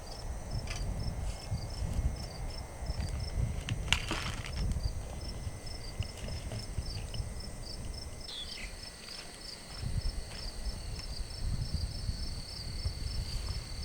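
Crickets chirping in an even pulse, about three chirps a second, over wind buffeting the microphone. There is one brief rustle about four seconds in.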